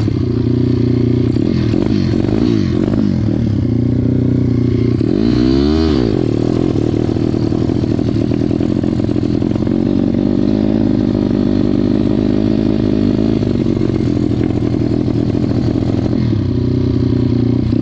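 Off-road motorbike engine running close by. Its pitch rises and falls through the first few seconds, holds fairly steady for about ten seconds, then varies again near the end.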